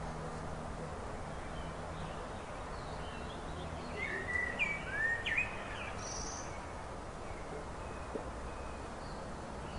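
A bird calling with a quick cluster of sharp chirps and whistled notes about four to five and a half seconds in, over steady outdoor background noise.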